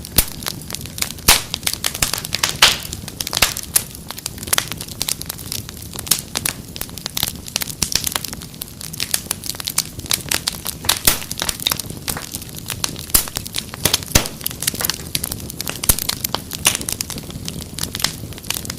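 Wood fire crackling in a fireplace: a steady stream of irregular pops and snaps over a low, steady rumble.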